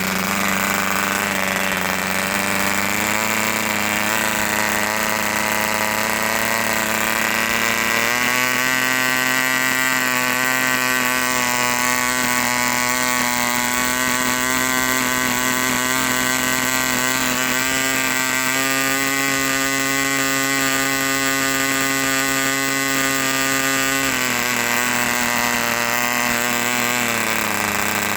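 Pepperell 23 TR engine running at fast idle while it is still being run in. Its speed steps up about eight seconds in, holds steady, then eases back down twice near the end.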